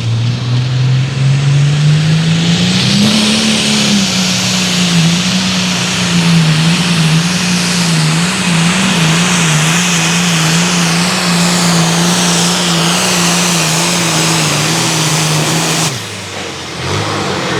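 Super Farm pulling tractor's turbocharged diesel engine revving up over the first few seconds and held at high revs through a pull, its pitch wavering slightly under load. Near the end the throttle is cut and the engine note drops suddenly.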